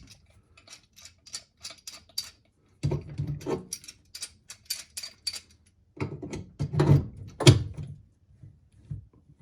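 A pipe wrench being adjusted and worked on a sink drain trap's slip nut: a run of sharp metal clicks and rattles, with heavier knocks and handling noise about three seconds in and again around six to seven and a half seconds in.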